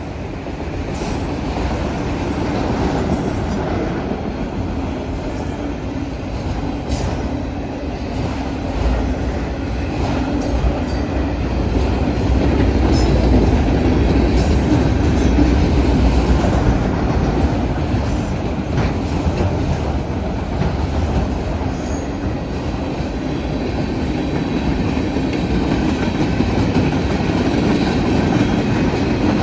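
Freight train cars rolling past close by: a steady heavy rumble of wheels on rail, with scattered clicks as wheels cross rail joints. It grows louder toward the middle.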